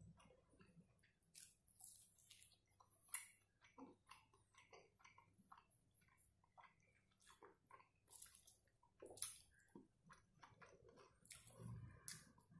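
A person eating fried pepper chicken leg by hand: faint, close-up chewing with wet mouth smacks and soft clicks, the sharpest about three seconds in.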